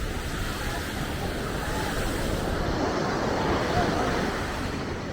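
Ocean surf washing onto the beach, swelling about midway through, with wind on the microphone and scattered voices of people nearby.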